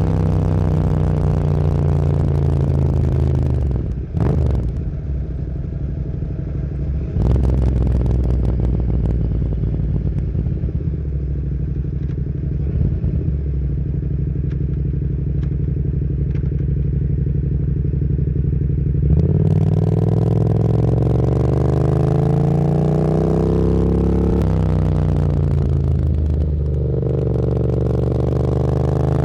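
Motorcycle engine heard from the rider's seat. It slows down early on with a brief break about four seconds in, then runs steadily at a constant pitch. About two-thirds of the way through it accelerates, rising in pitch through two upshifts.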